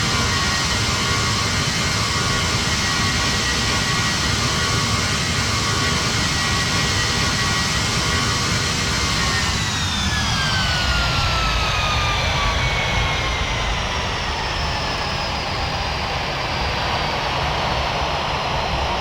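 Boeing 737 MAX 9 jet whine heard from inside the cabin over a steady rush of noise. It holds several steady high tones, then about halfway through they begin to fall in pitch, winding down to the end.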